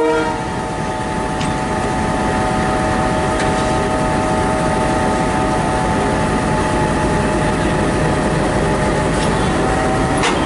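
Locomotive running steadily at close range: a dense, even rumble with several steady whining tones in it.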